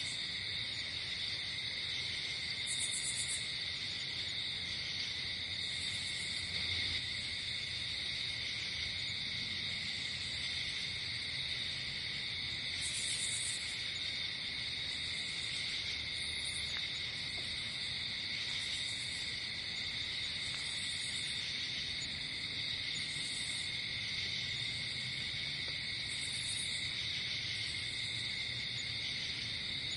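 Night insect chorus: crickets trilling steadily, with short, higher buzzes from other insects breaking in every few seconds.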